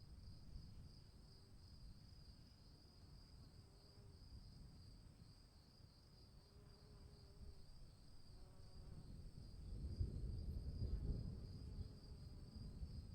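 Crickets chirping in a steady, fast-pulsing trill, with a faint low rumble underneath that swells about ten seconds in.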